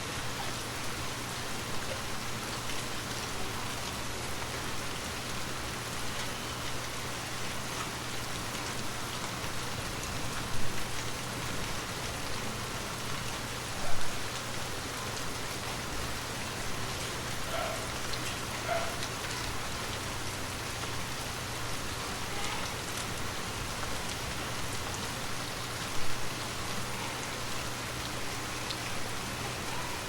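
Gentle rain falling steadily, an even patter, with three louder single taps standing out.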